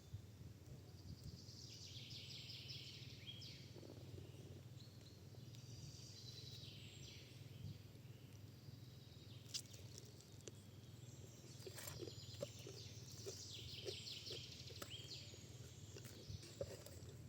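Birds singing in repeated short trilled phrases over a low steady rumble, with a few scattered sharp clicks in the second half.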